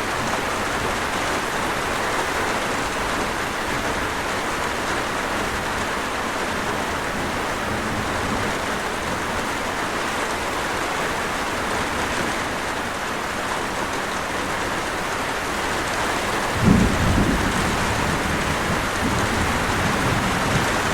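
Steady, heavy rainfall, with a sudden low rumble of thunder about three-quarters of the way through that rolls on for a few seconds.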